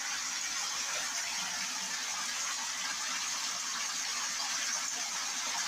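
Water running steadily from a shower tap, an even, unchanging hiss.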